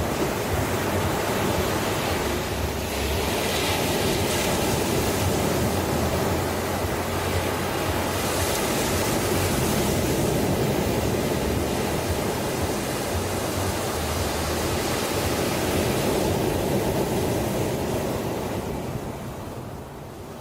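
Ocean surf washing in steadily, its rushing swelling and easing, then fading near the end.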